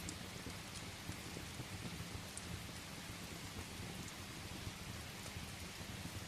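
Steady rain hissing against a window, with a low rumble underneath and a few faint sharp ticks scattered through.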